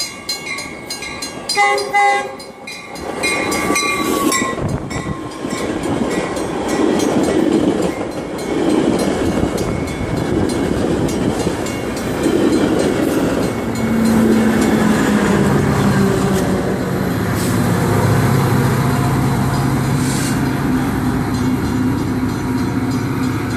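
Grade-crossing bells ringing rapidly, a short train horn sounding about two seconds in, then a Metra commuter train rolling into the station with a loud, steady rumble of wheels on rail. In the second half a low, steady engine drone settles in as the train slows to a stop.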